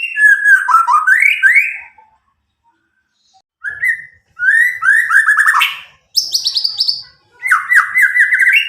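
White-rumped shama (murai batu, Medan type), a young bird about nine months old, singing loud, clear whistled phrases of quick repeated notes. Five phrases come in bursts with short pauses between them, one of them pitched noticeably higher.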